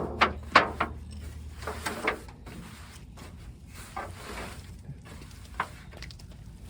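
Scattered light knocks and scuffs of a plastic oil drain pan being handled and set down, with a few sharper knocks in the first couple of seconds and fainter ones after.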